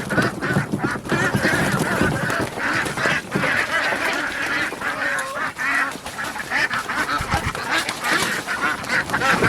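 A flock of domestic ducks quacking continuously, many calls overlapping, the loud quack typical of duck hens. Short knocks and scuffles run through it.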